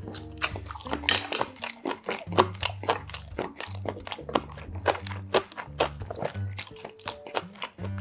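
Close-miked eating sounds of a man chewing boiled chicken: a dense run of short mouth clicks and smacks. Background music with steady low notes plays under them.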